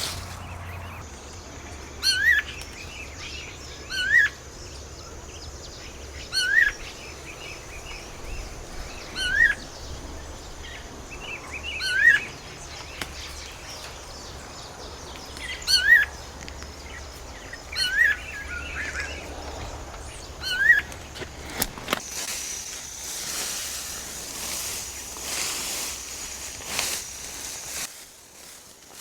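Forest ambience: a bird repeats a short, sharp call about every two seconds over a steady high-pitched insect drone. About 22 seconds in, the calls stop and the background turns to a louder, buzzier hiss.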